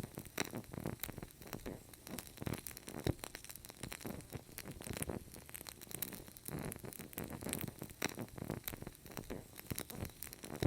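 Fire crackling: a dense, irregular run of sharp pops and snaps over a low rushing hiss of flames.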